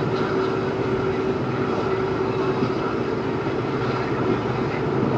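Steady hum of an EMD WDP4B diesel-electric locomotive's 16-cylinder two-stroke diesel engine running, with a steady tone over it that fades out about a second and a half in.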